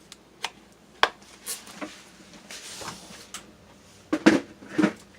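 Light clicks and knocks of kitchen items being handled and set down on a counter, with a few louder clacks near the end.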